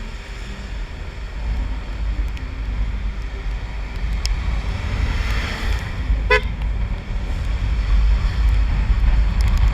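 Wind rushing over a helmet-mounted action-camera mic while riding a Honda Click 125i scooter, with the ride noise swelling as speed builds. A brief horn toot sounds about six seconds in.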